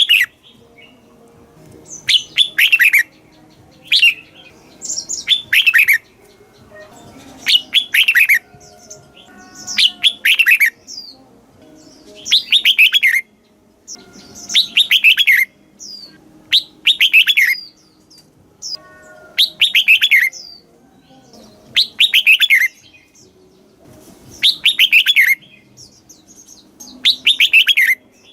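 Red-whiskered bulbul singing: short bursts of rapid notes that fall in pitch, repeated about every two to two and a half seconds.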